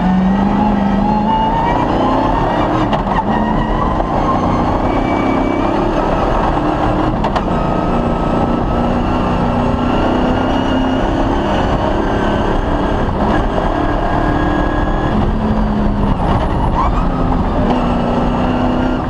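Cross-country rally car's engine running hard at stage speed, its note rising and dropping in steps as it revs and shifts, over heavy road and wind noise.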